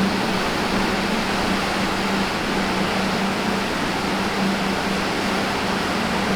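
Steady rushing noise with a low, slightly wavering hum underneath.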